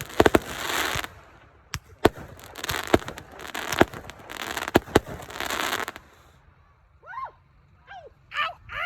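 Consumer fireworks going off: sharp bangs and crackling in about five bursts roughly a second apart, stopping about six seconds in. Near the end come a few short, high cries that rise and fall in pitch.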